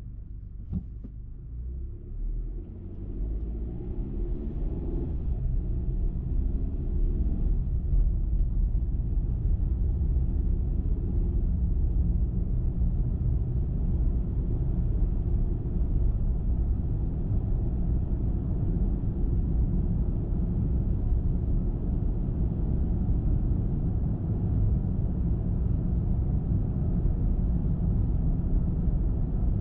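A car picking up speed in the first few seconds, its engine note rising, then a steady low rumble of engine and tyres on the road at cruising speed. There is a brief click about a second in.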